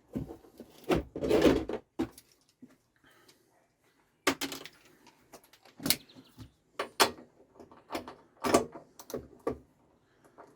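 Irregular clicks, knocks and rattles of hand tools on metal as the spark plug is taken out of a push mower's small engine, with a longer rattle about a second in.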